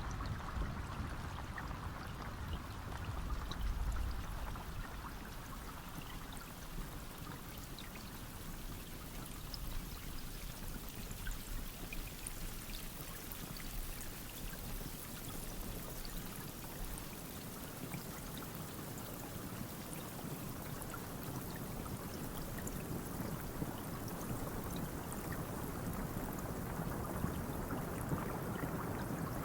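Steady rain falling, with scattered individual drops ticking through the hiss. A low rumble underneath fades out about halfway through.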